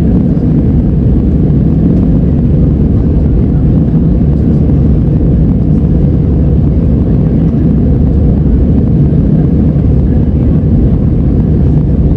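Jet airliner cabin noise heard from inside the passenger cabin: a loud, steady low rumble of the engines and airflow, unchanging throughout.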